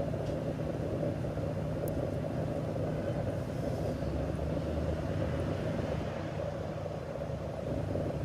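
Steady low rumble and hum of a motor vehicle engine running, over street background noise.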